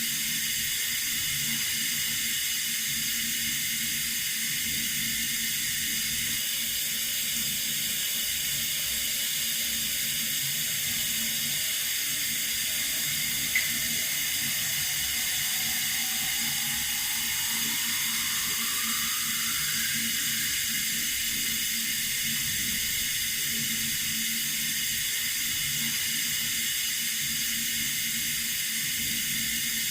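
Water running steadily from a tap, a constant even hiss. There is a single short tick about halfway through, and a faint tone rising slowly just after it.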